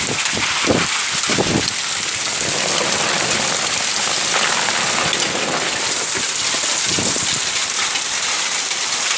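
Heavy rain falling steadily, a dense, even hiss of drops, with a few short, low splashy thuds in the first second and a half and again about seven seconds in.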